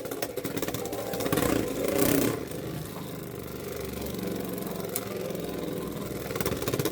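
Two Beyblade X spinning tops, Dagger Dran and Hells Chain, whirring in a plastic stadium. They clatter together in quick repeated hits for the first couple of seconds, then settle into a steady spinning whir.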